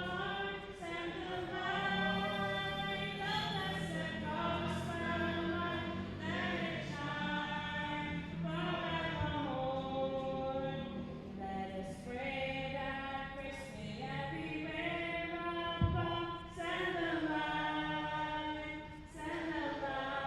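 A congregation singing a hymn together in long, held notes. A single low thump comes about 16 seconds in.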